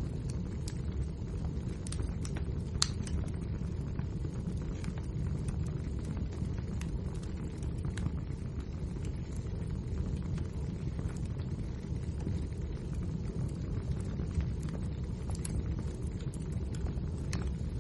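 Wood fire burning in a fireplace: a steady low rumble with frequent small crackles and pops, and one sharper pop about three seconds in.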